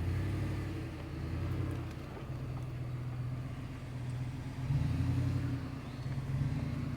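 Ford F-150 pickup's engine running at low revs while the truck crawls through a rough, washed-out stretch of trail, the engine note getting louder in brief surges about two-thirds of the way through and again shortly after.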